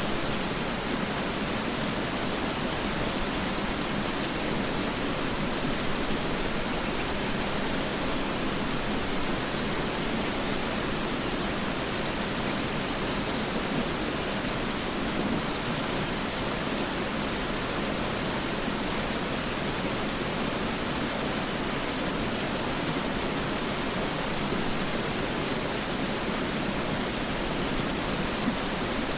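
Mountain river flowing, a steady, even rush of water without a break.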